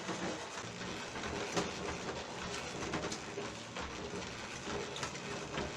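Bicycle being pedalled: steady mechanical running noise with a low rumble and a few light clicks.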